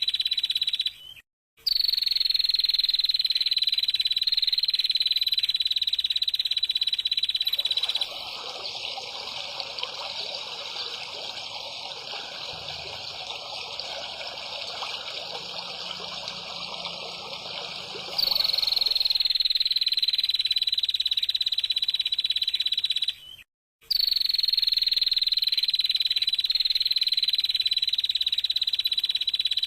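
A continuous high, buzzing animal call, heard in segments that start with a short falling glide and break off abruptly at edits. From about 8 to 18 seconds it gives way to a quieter, rougher, hiss-like sound.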